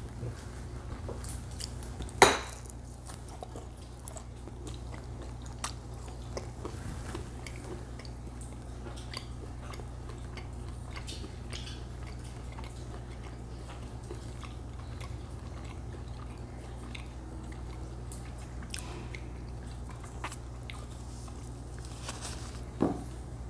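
People chewing crisp strips of bacon, with faint scattered crunches over a steady low room hum. There is one sharp knock about two seconds in and a smaller one near the end, like a dish against the table.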